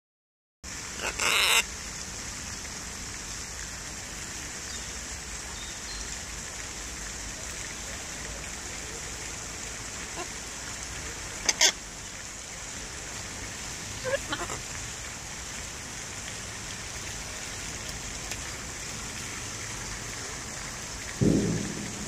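Steady hiss of outdoor background noise, broken by a few short, loud bird calls: a harsh one about a second in, two sharp ones near the middle and a fainter one soon after. A lower, louder sound comes near the end.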